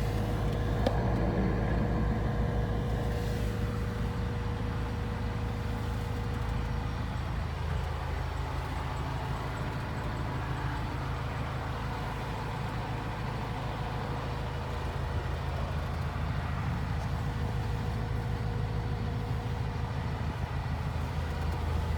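Caterpillar TH407C telehandler's diesel engine running steadily at a constant speed, with a faint steady whine over it.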